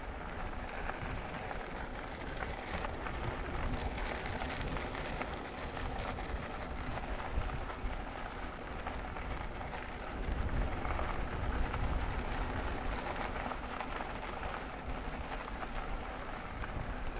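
Steady rushing noise of a bicycle ride: wind buffeting the microphone over the hum of tyres rolling on the trail, with a heavier low rumble from about ten seconds in.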